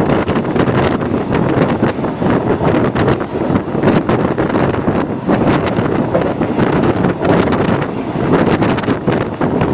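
Passenger train running along the track, heard from aboard: a steady rumble with frequent rattles and clicks, and wind buffeting the microphone.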